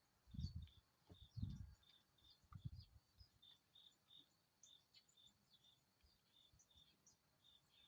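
Faint chirping outdoors: a short high chirp repeats steadily two or three times a second, with scattered quicker bird chirps above it. Three low thumps come in the first three seconds.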